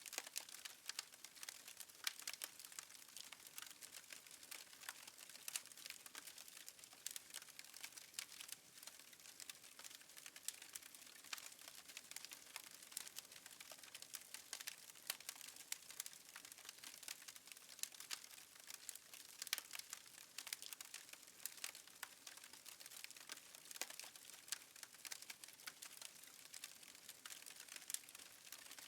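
Faint wood fire crackling: many small, irregular pops and snaps over a soft hiss.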